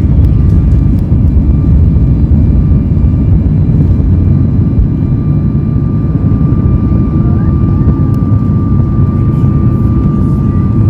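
Jet engine noise heard inside the cabin of a Boeing 737 MAX 8 with CFM LEAP-1B engines: a loud, steady low rumble with a steady high whine that grows stronger in the second half.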